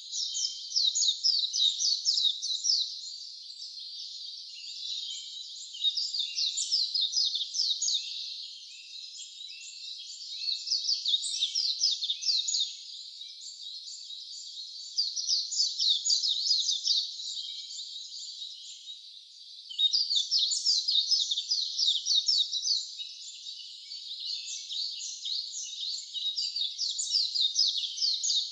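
A songbird singing in loud bursts of rapid, high, quickly repeated notes; each burst lasts two to three seconds and comes back about every four to five seconds.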